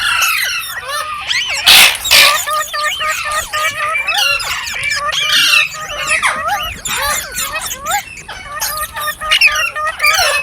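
Several green parrots chattering: a dense, continuous run of short chirps and whistled calls, with two loud harsh squawks about two seconds in.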